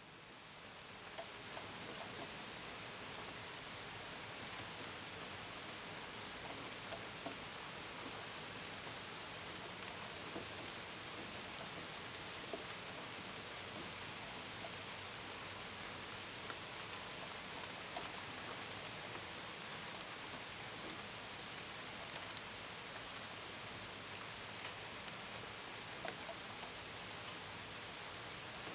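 Steady rain with scattered patter of drops striking a window and gutters, and crickets chirping in a steady high pulsing trill. The sound fades in over the first couple of seconds, then holds even.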